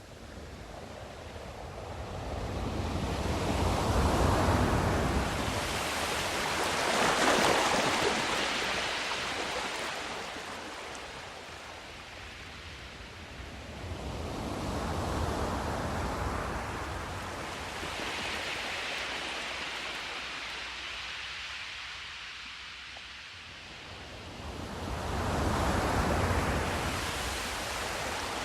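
Ocean surf: waves breaking and washing in, a hiss of water that swells and ebbs in slow surges every several seconds.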